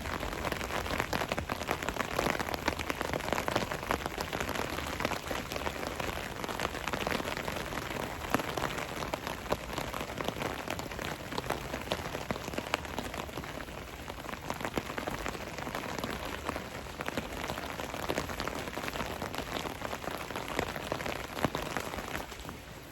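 Steady heavy rain falling, a dense run of many separate drops hitting close by.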